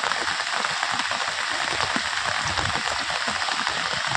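Steady drizzle falling, an even hiss of rain with many small drop hits.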